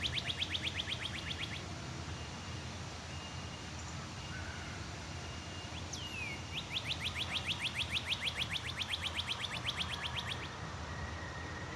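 A bird singing a rapid trill of short, evenly repeated high notes, about nine a second: once until about a second and a half in, then again from about seven seconds to about ten and a half. Faint thin whistles from other birds and a steady low rumble of background noise run underneath.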